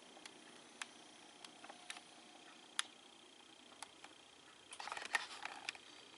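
Vintage quartz radiant fan heater running on its 1500-watt setting: a faint steady hum with a thin high tone, and scattered light ticks and clicks. A short flurry of crackling clicks comes about five seconds in.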